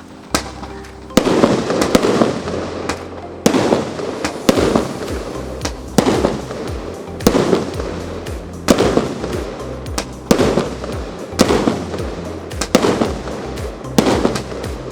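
A 36-shot consumer fireworks battery (cake) firing shot after shot, roughly one every second or so. Each shot is a sharp bang that trails off over about a second.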